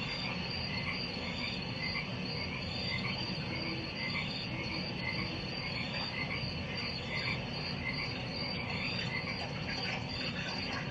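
Chorus of frogs and insects: a steady pulsing insect trill with frog calls repeating a few times a second, over a steady low rumble.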